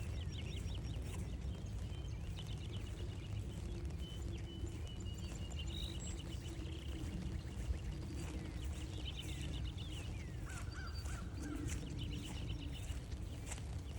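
Several birds calling and singing in a mix of chirps and trills, over a steady low rumble of wind on the microphone, with faint ticking of light rain.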